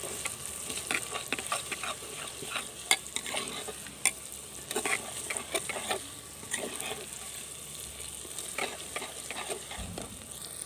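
Steel spoon stirring and scraping in a clay pot while onions with ginger-garlic and red chilli paste fry in ghee: a steady sizzle with irregular scrapes and knocks of the spoon against the pot.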